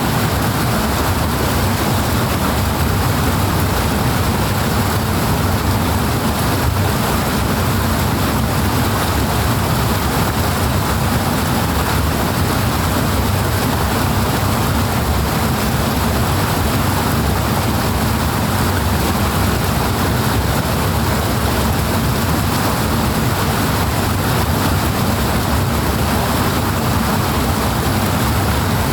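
Fast-flowing water rushing in a steady, unbroken stream, heavy in the low end.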